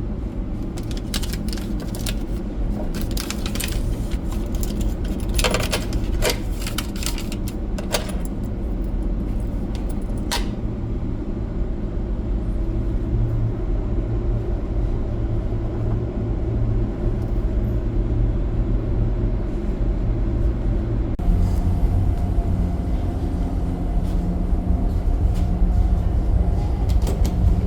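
A ferry's engines make a steady low rumble and hum aboard the ship at sea, and the hum's tone shifts about two-thirds of the way through. Several sharp clicks and rattles come in the first third.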